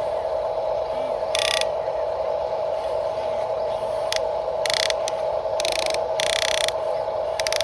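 Electric motors and plastic gearboxes of a radio-controlled construction model running: a steady whine with several short bursts of higher gear whirring as the drive or arm is worked.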